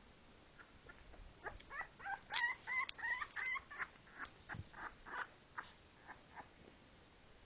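Sleeping puppies whimpering and squeaking. A run of short high squeals starts about a second and a half in, then softer, shorter chirps follow and die away.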